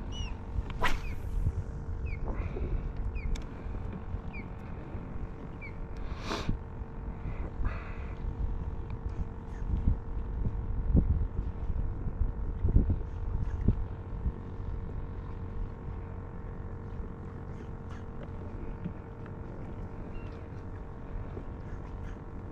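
A steady hum over a low rumble, with a few scattered clicks and knocks.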